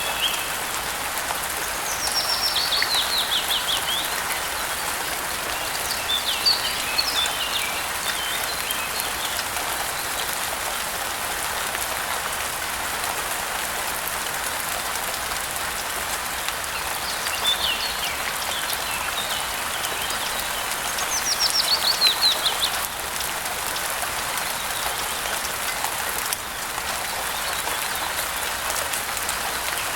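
Steady rain with birds calling over it. Twice there is a song phrase of rapid falling notes, a few seconds in and again past the middle, with shorter twittering calls between.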